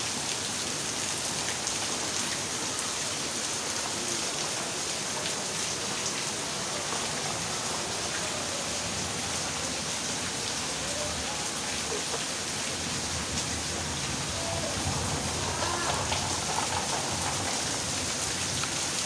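Steady rain falling on wet concrete, an even hiss.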